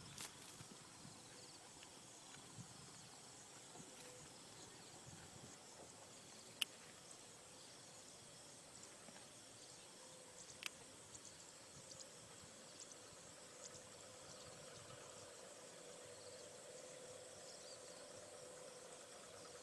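Near silence: faint outdoor ambience with a thin steady insect buzz, broken by two sharp clicks, one about a third of the way in and one about halfway.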